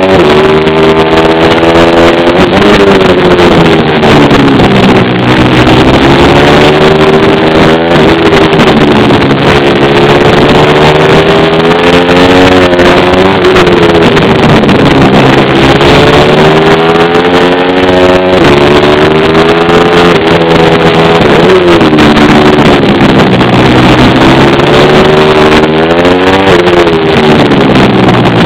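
Pit bike's small single-cylinder engine being ridden hard, loud throughout. Its pitch climbs as the throttle opens and drops back as it closes, again and again every few seconds through the run of corners and straights.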